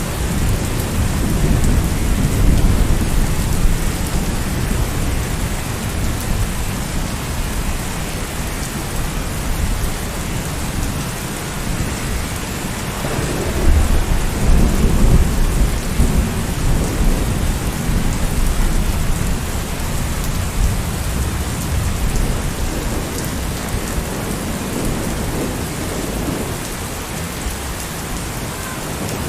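Steady heavy rain, with a deep low rumble under it that swells louder about two seconds in and again about halfway through.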